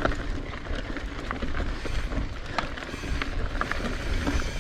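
Mountain bike rolling along a rocky dirt singletrack: tyres crunching over stones, with scattered clicks and rattles from the bike and a low wind rumble on the microphone.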